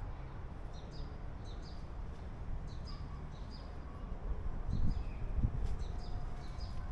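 Small birds chirping repeatedly over a steady low rumble, with a few soft low thumps about five seconds in.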